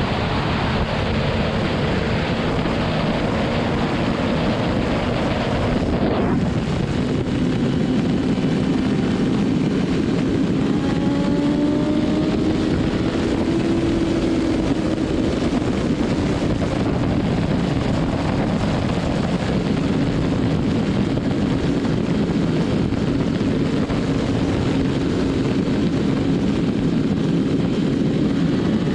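BMW S1000RR's inline-four engine running at a steady highway cruise under heavy wind rush; the engine note rises slightly about halfway through, then holds.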